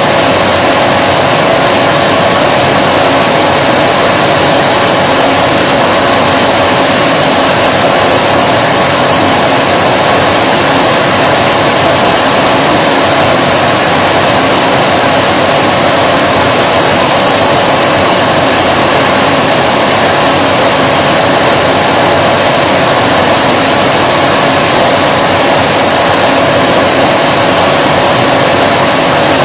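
Vacuum cleaner running steadily at a loud level: an even rush of air with a constant motor whine.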